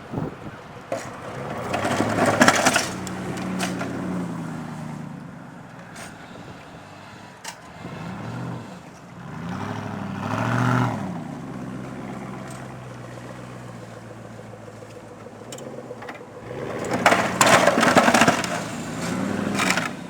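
Chevy Z-71 4x4 pickup truck plowing snow, its engine revving up and falling back again and again as it pushes. Two louder rushing stretches come about two seconds in and again near the end.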